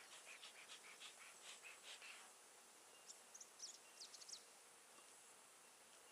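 Bee smoker bellows being puffed quickly, faint short hisses of air and smoke about four or five a second, stopping a little over two seconds in. A few short high bird chirps follow.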